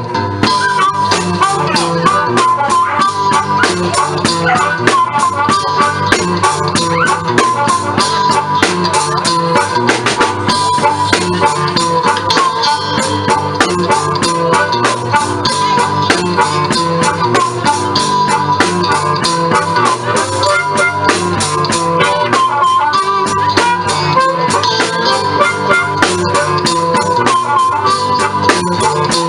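Live blues band playing an instrumental passage: a wavering lead line over a repeating bass riff and guitar, with a steady, busy drum beat that comes in right at the start.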